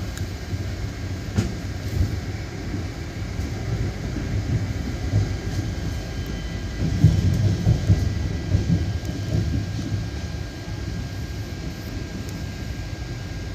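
Passenger train coach running along the track, heard from inside: a steady low rumble of wheels and running gear that swells for a couple of seconds about halfway through.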